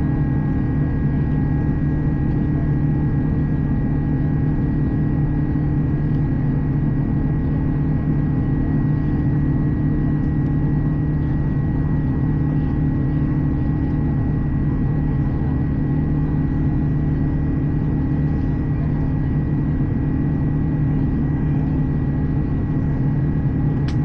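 Airbus A350 cabin noise in flight: a steady engine and airflow drone with several unchanging tones layered over it.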